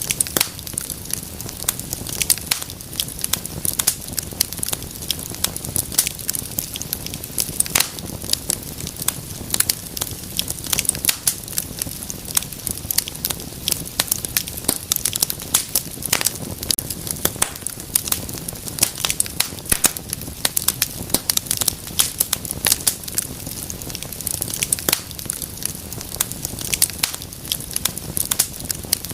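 Wood fire crackling steadily, with dense irregular pops and snaps over a low rumble of burning.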